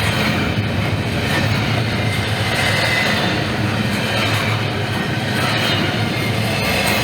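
Norfolk Southern freight train rolling past, a steady rumble and rail noise from its cars.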